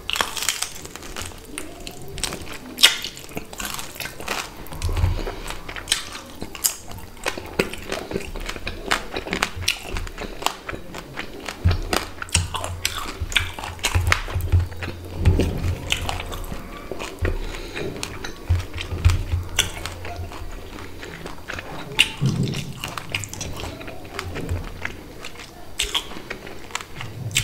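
Close-miked eating sounds of a person eating rice and hilsa fish curry with his fingers: wet mouth clicks, lip smacks and chewing, with dull low thumps from biting and chewing through the middle of the stretch.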